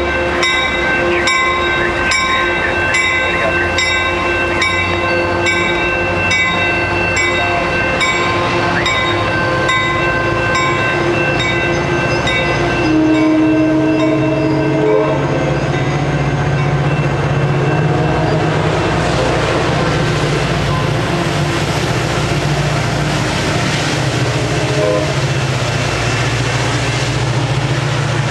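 Coaster bilevel commuter train running past, with a grade-crossing bell ringing about twice a second. About 13 seconds in, a train horn sounds for about two seconds. Then a steady low rumble and rising rail noise build as an Amtrak train approaches.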